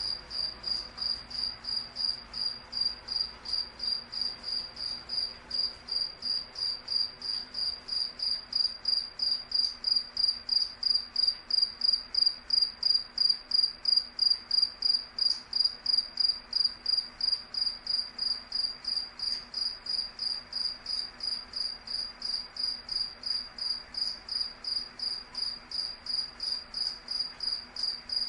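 A cricket chirping steadily: a single high-pitched chirp repeated evenly, about three to four chirps a second, growing a little louder midway.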